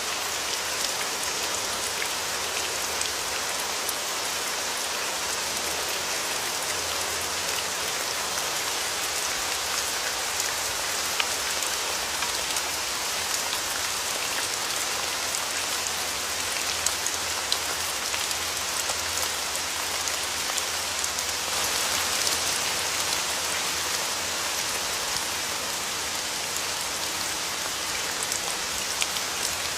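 Steady rain falling, with individual drops ticking sharply now and then. The rain swells briefly about two-thirds of the way through.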